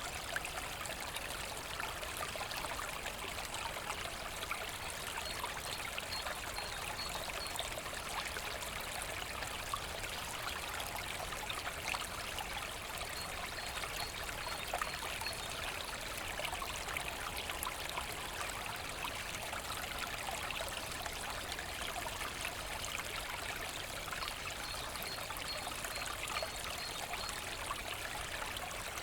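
Brook babbling and trickling steadily.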